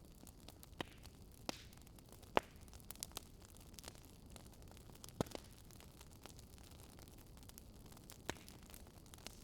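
Wood fire crackling in a fireplace: a faint steady hiss with sharp pops at irregular intervals, the loudest about two and a half seconds in and again just after five seconds.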